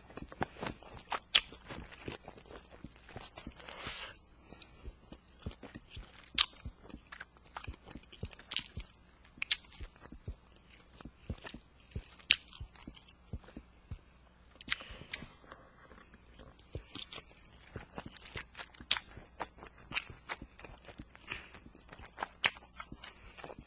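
A person chewing and biting food close to the microphone: irregular sharp mouth clicks and bites all through, a few much louder than the rest.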